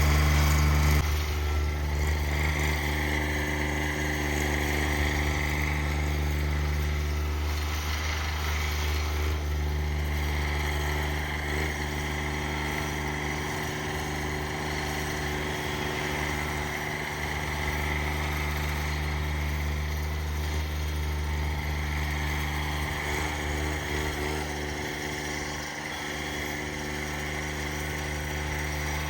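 Cub Cadet 1782 garden tractor engine running steadily. It drops in level about a second in, then eases slowly lower.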